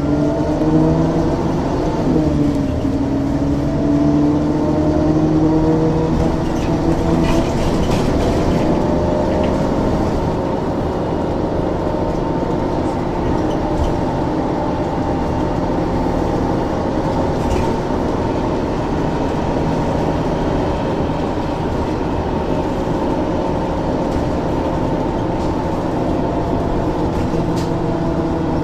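Ikarus 435 articulated bus with a ZF gearbox driving, its engine and drivetrain running with a steady hum; the pitch dips and climbs again in the first few seconds, then holds fairly even, with a brief rattle around a third of the way in.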